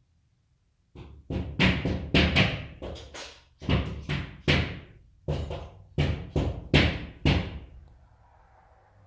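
A quick, uneven series of about fifteen loud knocks or bangs, each ringing briefly, starting about a second in and stopping near the end.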